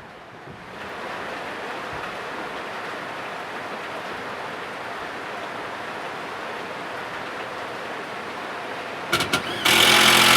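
A steady hiss, then a small electric power tool's motor blipped on briefly two or three times near the end before running loudly with a high whine.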